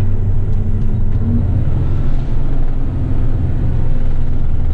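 Diesel engine of an eight-wheeler garbage truck running steadily as the truck drives, a low, even drone.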